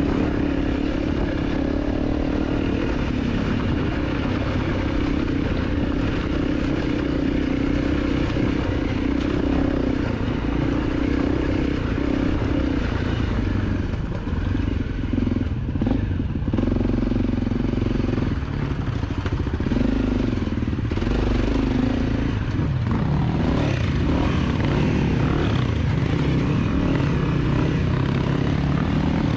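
250 cc dirt bike engine running under way. It holds a steady pitch for long stretches and rises and falls in the middle as the throttle is worked.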